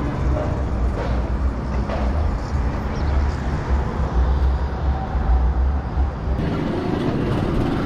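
Motorbike engine idling with a steady low rumble.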